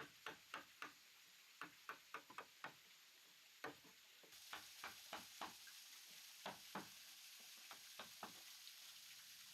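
Faint, irregular sharp clicks, a few a second. About four seconds in, a steady high hiss starts under them.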